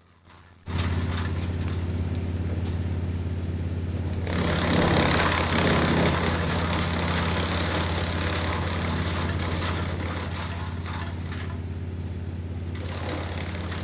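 Wood chipper running with a steady engine hum that cuts in abruptly under a second in. From about four to six and a half seconds a louder rushing, grinding noise rises over it as wood goes through the chipper, then the machine runs on.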